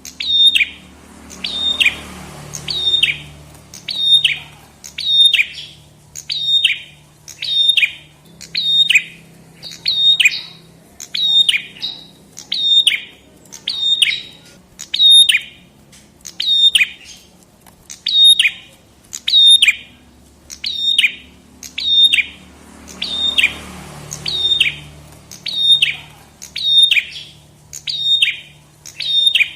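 A prenjak kepala merah (red-headed prenjak) songbird calling over and over: a loud, sharp, downward-sweeping chip about one every three-quarters of a second, steady in pace and pitch.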